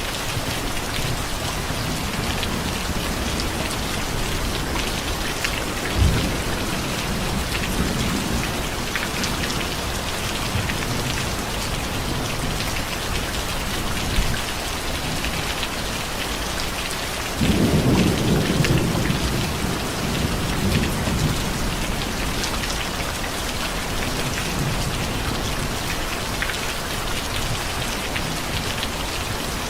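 Steady rain falling, with thunder: a short sharp clap about six seconds in, and a longer, louder rumble starting a little past halfway that lasts a few seconds.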